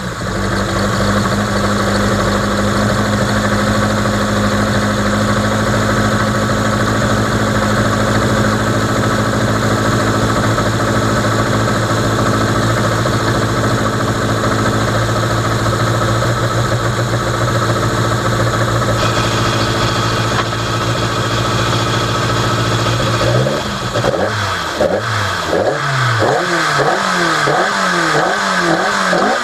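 Opel Kadett C Coupé rally car's engine idling steadily while waiting at a stage start, then revved up and down again and again in quick throttle blips from about 24 seconds in.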